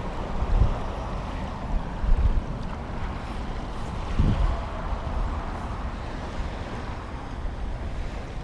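Wind buffeting the microphone in uneven gusts over a steady rush of water and waves.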